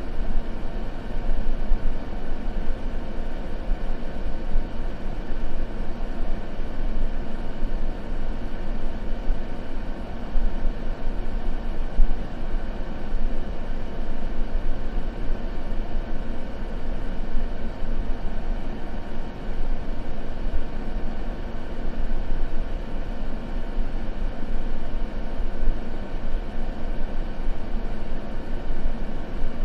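Continuous white-noise sleep sound, a steady even hiss and rumble that is heavier in the low end and soft in the treble, with a faint steady hum in it.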